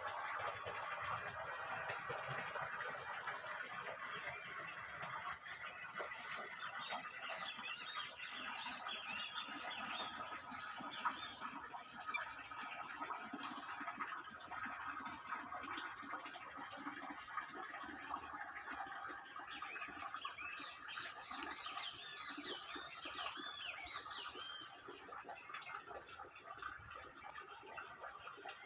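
Birds singing: a run of loud whistled notes, each rising in pitch, from about five to twelve seconds in, then softer chirping calls later, over a steady high-pitched drone.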